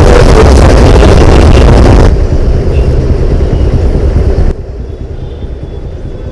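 Road and wind noise on a helmet-camera microphone while riding a scooter in traffic: a loud, steady rumble that drops abruptly about two seconds in and drops again, more quietly, a little past halfway.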